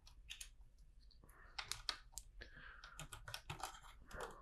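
Faint, scattered small clicks and light rustling as LEGO pieces and a sticker sheet are handled.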